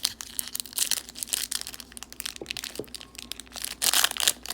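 Foil wrapper of a trading card pack being handled and torn open, a dense crackle of sharp ticks that grows louder near the end.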